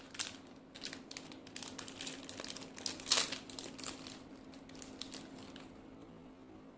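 Wrapper crinkling as it is handled: a dense run of sharp crackles, loudest about three seconds in, thinning out after about four and a half seconds, over a faint steady hum.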